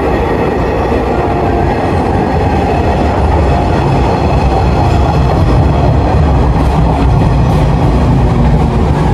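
Yellow JR West local electric train pulling into an elevated station platform: a steady rumble of wheels and running gear that swells a little louder over the first few seconds.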